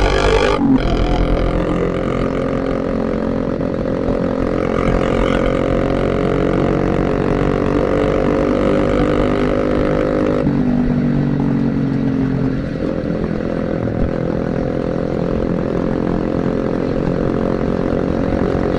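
Motorcycle engine running under way, heard from the rider's position; the engine note drops about ten seconds in as the rider eases off, then steadies again.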